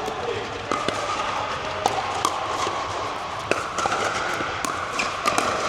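Pickleball play: paddles popping against the plastic ball and the ball bouncing on the court, a sharp pop every half second to second at irregular intervals, with shoes squeaking on the hall floor.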